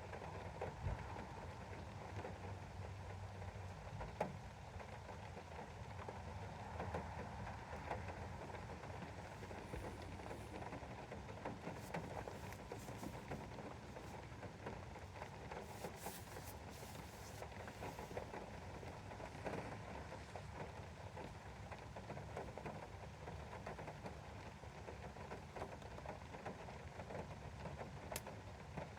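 Steady rain pattering on a window pane, with individual drops ticking against the glass.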